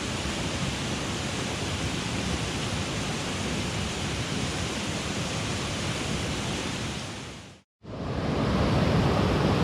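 Mountain stream water rushing steadily. About three quarters through it drops out to silence for a moment, then comes back louder and deeper.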